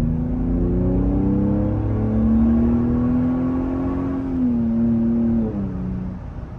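Toyota Sequoia engine breathing through an aftermarket slip-on exhaust, heard from inside the cabin while accelerating hard. Its pitch rises over the first couple of seconds and holds, then steps down twice in the second half as the revs drop, and it eases off near the end.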